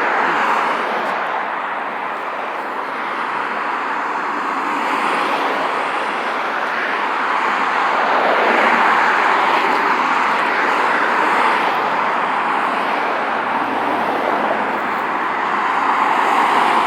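Road traffic going past: a steady rush of tyre and engine noise that swells as vehicles pass, about halfway through and again near the end.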